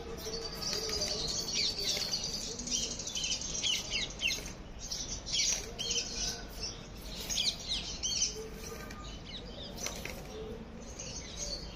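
Birds chirping: many quick, high twittering chirps over a low steady rumble.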